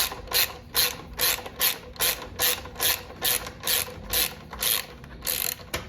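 Ratchet wrench with a 12mm socket backing out a bolt: a regular run of ratchet clicks, about two to three strokes a second.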